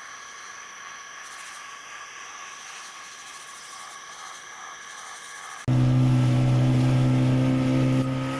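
A faint steady high-pitched hum, then about six seconds in a much louder motor drone cuts in suddenly and runs on steadily, its pitch rising slightly.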